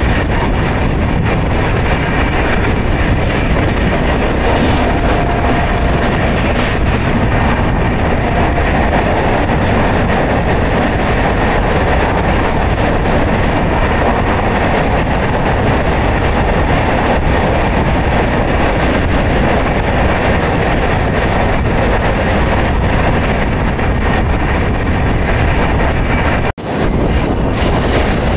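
Express passenger train running on the rails, a steady loud rumble of wheels and coaches. It cuts out abruptly for an instant near the end.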